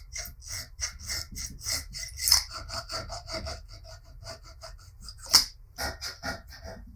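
Repeated hand-worked rubbing or scraping strokes, about three a second, with a sharper knock a little past the five-second mark.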